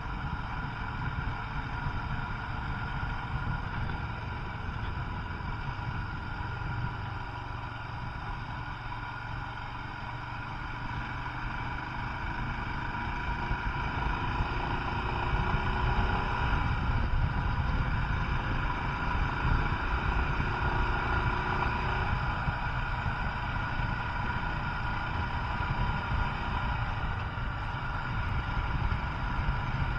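Royal Enfield Himalayan's 411 cc air-cooled single-cylinder engine running on the move, under a heavy rumble of wind on the microphone. It grows louder about halfway through.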